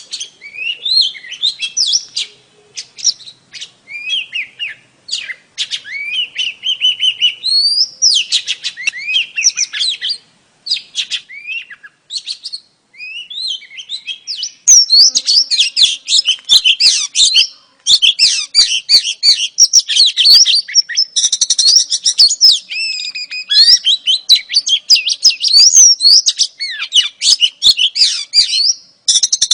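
Female oriental magpie-robin (kacer) singing: rapid chirps, whistles and sliding notes, broken up with short pauses for the first half, then dense and almost continuous from about halfway.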